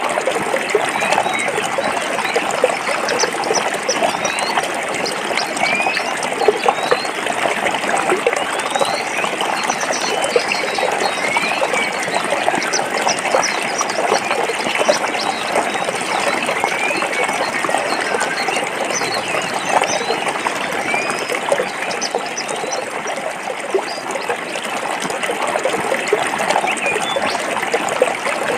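Stream water running and splashing over rocks in a steady, unbroken rush, with small bubbling and trickling sounds throughout.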